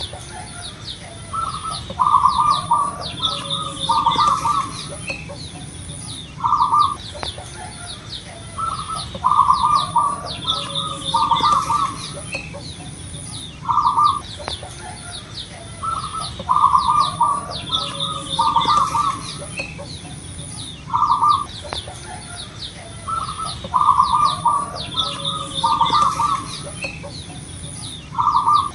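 Zebra dove (perkutut) singing its cooing song, the phrase repeated about every seven seconds: a single opening note, then a quick run of coos. Small birds chirp high above it, with a faint steady high tone throughout.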